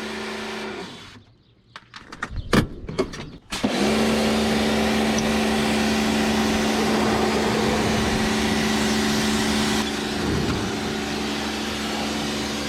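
Pressure washer sputtering in a few short bursts, then running steadily: a motor hum under the hiss of the water spray.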